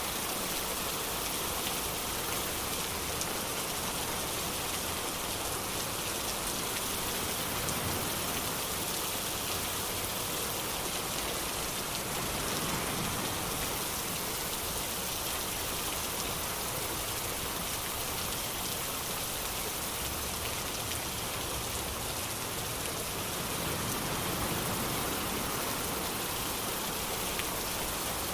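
Steady rain falling, an even hiss of rain on surfaces that keeps up without a break.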